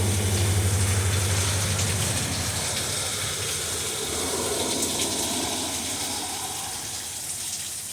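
Heavy rain falling steadily, with a low rumble underneath that fades away about two seconds in.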